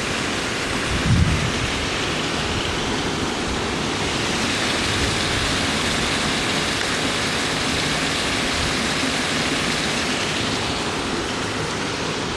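Storm wind howling in a steady rush, with a low gust thump against the microphone about a second in.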